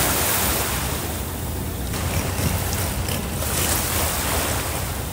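Wind buffeting the microphone over rushing sea water, with a steady low rumble underneath; the hiss swells and fades every second or so.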